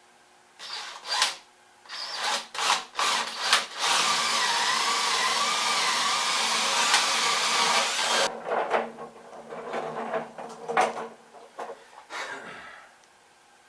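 Power drill boring a 5/8-inch hole through a wooden dolly: a few short bursts of the motor, then one steady run of about four seconds whose pitch wavers under load and cuts off suddenly. Irregular knocks and rattles follow.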